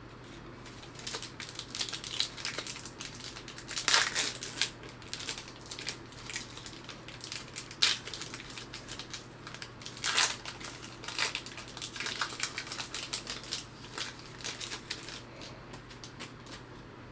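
A trading card pack wrapper being torn open and crinkled by hand: an irregular run of crackles and rustles, with several louder crackles along the way.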